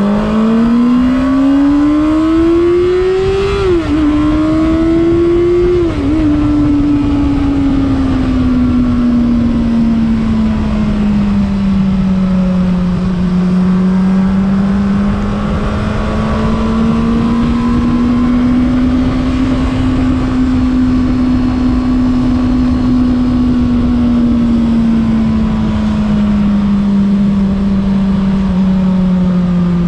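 Honda CBR600RR's inline-four engine pulling hard, its note climbing and then dropping sharply at two upshifts about four and six seconds in. It then holds a steady cruise, the pitch slowly falling, rising and easing off again, with a rushing noise underneath.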